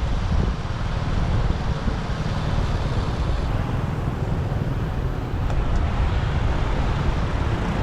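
Motorbike riding through city traffic: a steady low rumble of engine, wind and road noise with no clear breaks.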